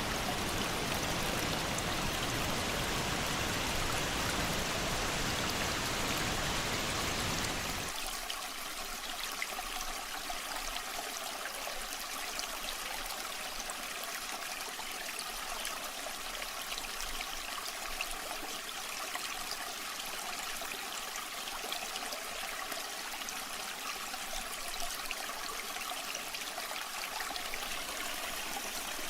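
Waterfall water rushing steadily. About eight seconds in it changes abruptly to a lighter, thinner flow without the deep rumble.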